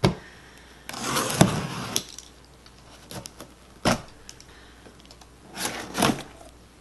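Packaging and parts of a new vacuum cleaner being handled while it is unpacked: a rustle with a sharp knock about a second in, a single knock near the middle, and another short rustle with a click near the end.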